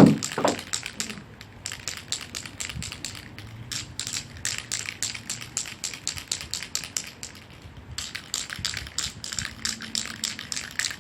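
Aerosol spray-paint can being shaken, its mixing ball rattling in a fast, even rhythm of several clicks a second, pausing briefly a few times. A short thud right at the start.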